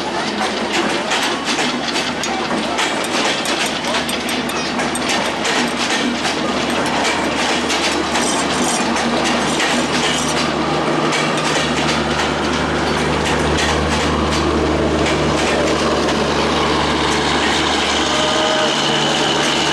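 Express passenger train passing through a station: quick wheel clatter over the rail joints for about the first ten seconds, then a steadier low hum.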